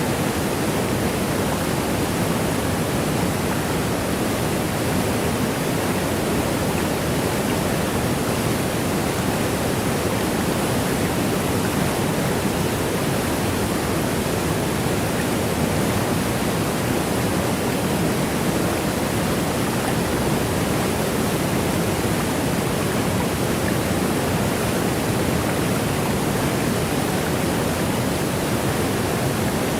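Steady, unchanging rush of a waterfall, an even hiss with no separate splashes or changes.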